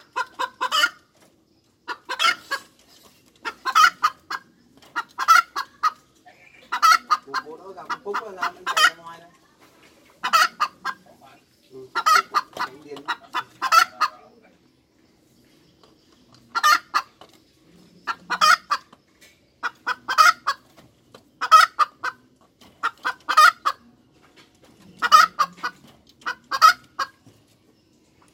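Hen cackling: loud bursts of clucking calls repeated about every one and a half seconds, with a short break around the middle.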